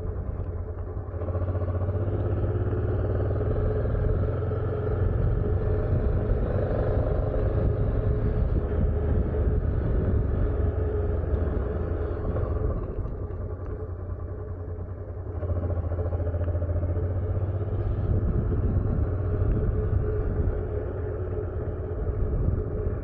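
Honda motorcycle engine running while riding, a steady low rumble with a constant hum; it drops quieter for a few seconds around the middle, then picks up again.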